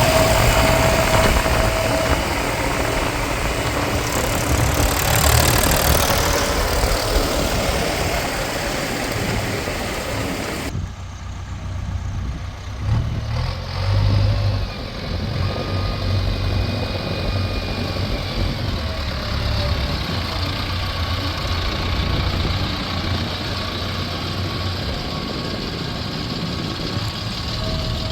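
Diesel engine of the earthmoving machinery running with a steady low rumble. The sound changes abruptly about eleven seconds in, losing its high hiss, with a couple of brief louder surges shortly after.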